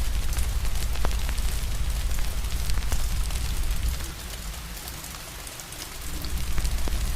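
Steady rain with scattered sharp crackles of a wood fire. Under it runs a low rumble that drops away about four seconds in and comes back near the end.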